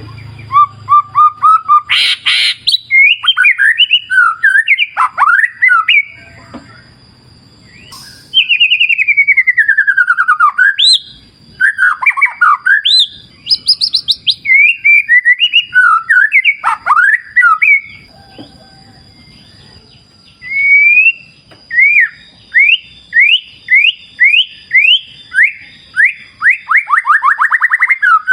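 White-rumped shama (murai batu) singing loudly in varied whistled phrases: sweeping and falling notes, chattering runs and a fast series of rising notes near the end, with short pauses between phrases. A faint steady high tone runs underneath.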